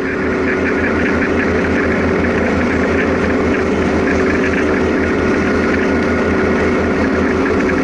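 Motorcycle engine running steadily, with a low regular pulsing and a constant hum.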